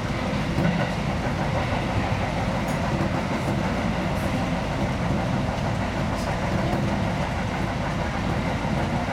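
Seibu 2000-series electric train running at steady speed, heard from inside the driver's cab: a constant rumble of wheels on rail with a few faint ticks.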